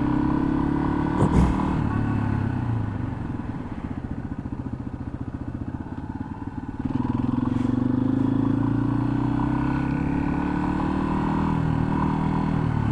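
2021 Yamaha XT250's single-cylinder engine running under way. About three seconds in it drops to a lower, quieter pulsing, as off the throttle. Around seven seconds in it picks up again and its pitch climbs slowly as the bike accelerates.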